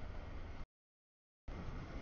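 CSX double-stack intermodal freight train passing, a faint rumbling noise heaviest in the lows. The sound cuts out completely for most of a second between two stretches of rumble.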